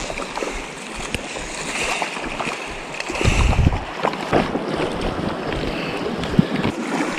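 Creek water rushing steadily, with wind buffeting the microphone and a stronger gust about three seconds in.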